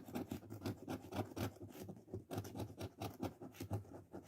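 Coin or scraper scratching the coating off a lottery scratch-off ticket: a run of quick short scrapes, several a second.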